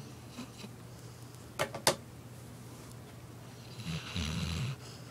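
A sleeping dog snoring: one rough, low snore about a second long, a little before the end. Earlier, about a second and a half in, come two sharp clicks a moment apart, the loudest sounds here.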